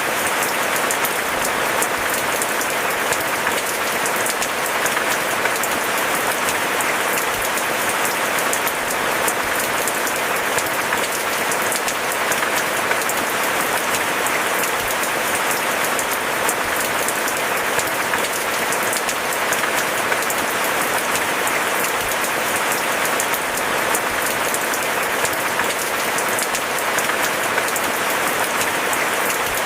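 Steady, heavy rain: a dense, even hiss of countless drops that does not let up, with no thunder.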